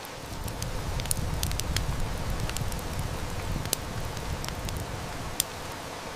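Heavy rain falling steadily, with a wood fire crackling in scattered sharp snaps. A low rumble of distant thunder swells in just after the start and dies away about five seconds later.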